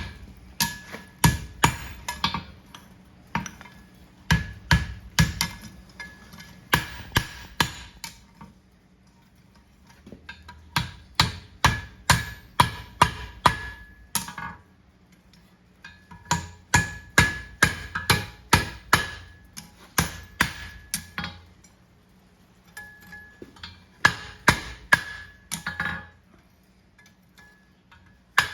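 Hammer striking a hot steel horseshoe on an anvil to shape it: runs of quick, ringing blows in four bouts, with short pauses between them.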